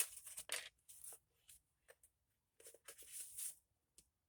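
Tarot cards being handled: faint, papery rustles and slides in short bursts, with a longer shuffle-like rustle about three seconds in.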